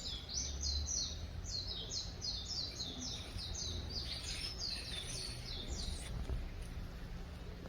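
A songbird singing a rapid run of high, falling notes, about three a second, which stops about six seconds in, over a steady low hum.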